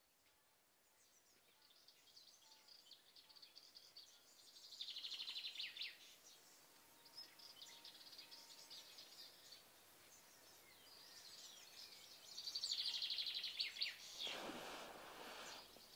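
Quiet birdsong: scattered high chirps with two brisk rapid trills, the louder one a little before the end. Near the end a brief soft rush of noise comes in under it.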